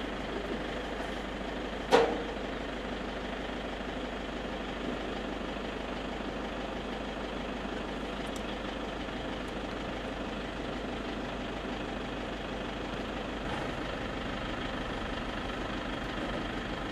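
A steady mechanical hum, like an idling engine, with one sharp click about two seconds in.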